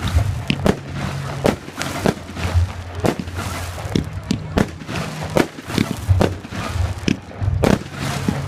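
Fireworks going off at a display: a rapid string of sharp bangs and crackles, about two a second.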